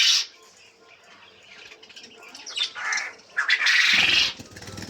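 Quail calling: a few short, harsh calls, the loudest lasting nearly a second about three and a half seconds in. A low fluttering sound comes in near the end.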